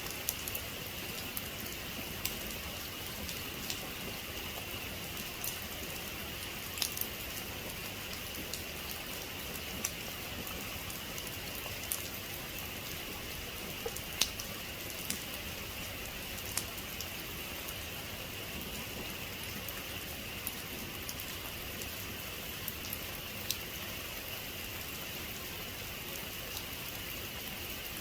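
Steady rain falling: an even hiss with scattered sharp ticks of single drops hitting close by.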